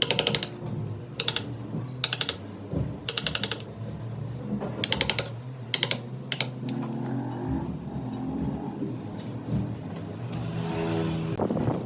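Wood lathe running while a turning tool cuts the spinning wooden blank, heard as short spells of rapid clicking, about six in the first half. In the second half only the lathe's steady hum remains, rising near the end.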